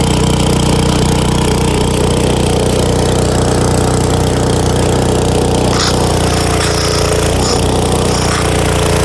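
Small gasoline engine of an old Titan Industrial pressure washer running steadily, driving its replacement pump; the low engine note shifts slightly about six seconds in.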